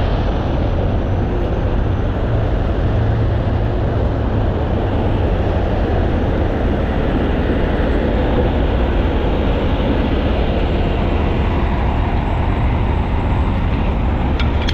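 Heavy tow truck's diesel engine running steadily, a continuous low rumble with a noisy hiss over it.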